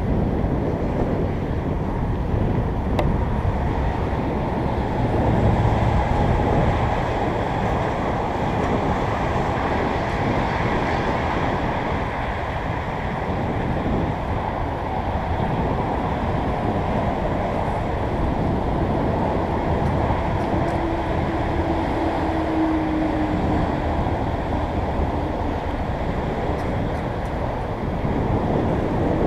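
Steady wind rushing over the microphone of a moving bicycle, a rumbling noise that stays much the same throughout. About three-quarters of the way through, a short faint hum sounds above it.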